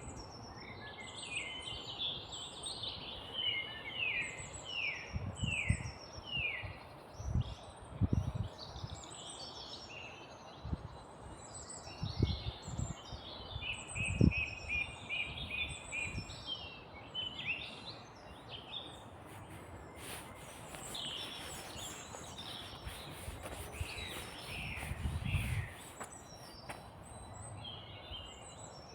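Several small songbirds singing and chirping, with quick trills and overlapping calls all through. A few low thuds come and go beneath them.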